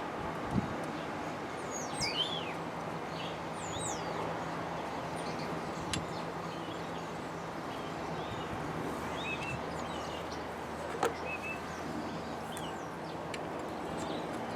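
Small birds chirping in short, pitch-sweeping calls over steady background noise, with a few sharp clicks now and then and a faint low hum.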